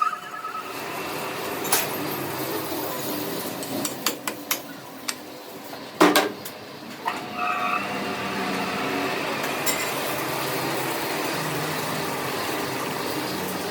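Metal tools and parts clinking and knocking in a workshop, a scatter of sharp clanks with the loudest a little before halfway, then a steady machine sound with a faint whine in the second half.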